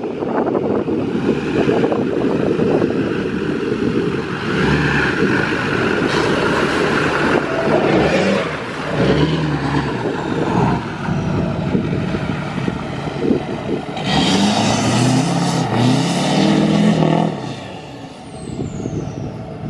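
Duramax 6.6-litre diesel pickup driving, its engine note climbing and dropping back several times as it accelerates through the gears, over a steady rush of road and wind noise.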